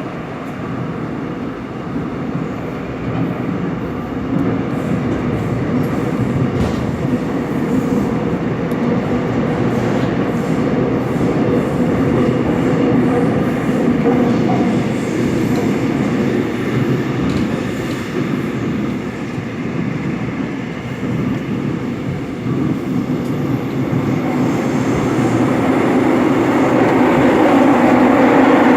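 Seoul Metro Line 7 subway train running between stations, heard from inside the car: a steady rumble of wheels on rail with scattered clicks, growing louder toward the end.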